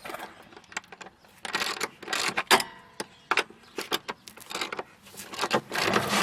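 Hand tools on the rear shock's top mount: irregular metallic clicks and clanks, with a ratchet wrench clicking in short runs.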